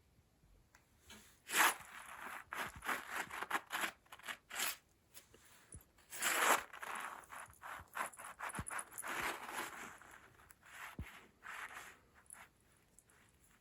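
A rug rustling and scraping as a cat plays and scrambles under it, in irregular bursts with two louder rushes, one near the start and one about halfway through.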